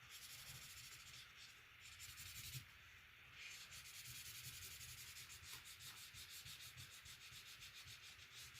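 Faint scratching of colouring strokes on paper as the top bird is coloured green, turning into quick, even back-and-forth strokes from about three and a half seconds in.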